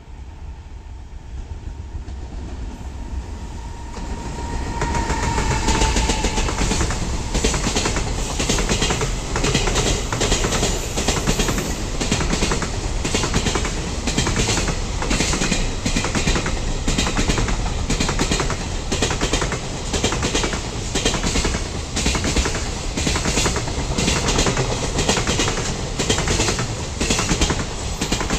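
EF210-hauled container freight train running through the station at speed, growing louder as it arrives, then a long rhythmic clickety-clack of the wagon wheels over the rail joints as the container wagons pass.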